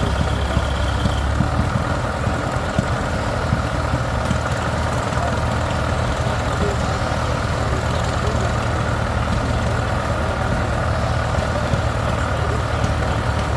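Heavy engine idling steadily at an even pitch.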